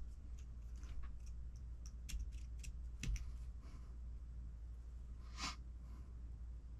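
Small kit parts being handled on a workbench: a scattering of light clicks and ticks, with a short rustle about five and a half seconds in, over a low steady hum.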